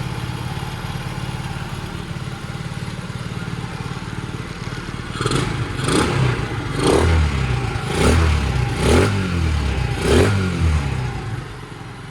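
Skyteam Gorilla 110 monkey bike's small single-cylinder engine idling, then revved in about six quick throttle blips, each rising and falling in pitch, before settling back to idle near the end.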